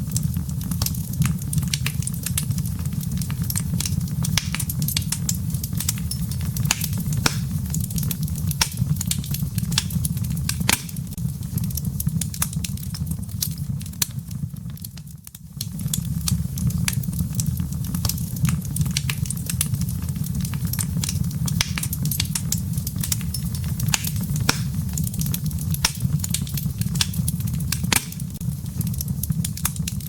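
Wood fire burning in a fireplace, crackling with frequent sharp pops and snaps over a steady low rumble. About halfway through it briefly drops quieter, then picks up again.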